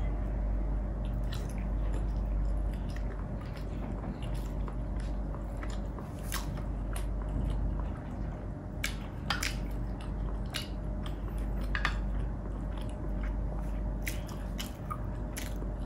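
Close-miked chewing and wet mouth sounds of a person eating, with scattered short sharp smacks and clicks, over a steady low hum.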